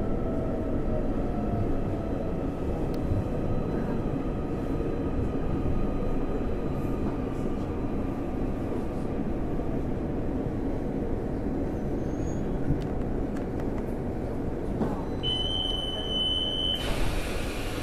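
Inside a Taiwan Railways electric commuter train slowing to a stop: steady running rumble from wheels and motors. Near the end a steady electronic beep sounds for about a second and a half, followed by a hiss of air as the doors open.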